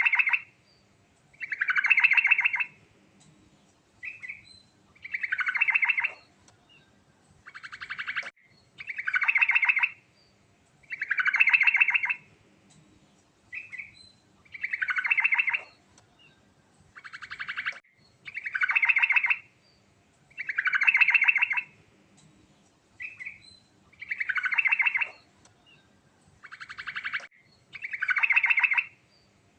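Yellow-vented bulbul (trucukan) singing. It repeats short bubbly phrases of quick notes, about one every two seconds, with shorter phrases between them, in a pattern that keeps coming round.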